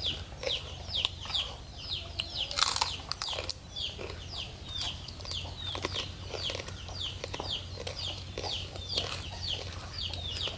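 Birds peeping steadily: short, high calls that slide downward, two or three a second. Scattered short clicks and smacks of people eating with their hands come in between.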